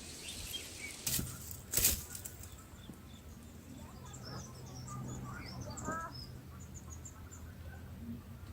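Two quick rushes of bulbul wings about a second and two seconds in, the second the louder, typical of a parent bird landing at or leaving the nest. Then a run of thin, high chirps from the birds at the nest.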